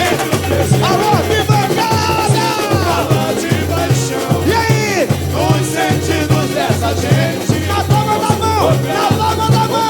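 Samba-enredo played by a samba school's bateria and band, with low surdo drums beating a steady pulse about twice a second under gliding melodic lines.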